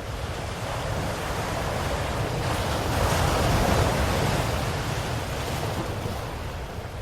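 Ocean waves washing onto a shore: one wave builds, breaks about three seconds in with a rush of surf, and recedes.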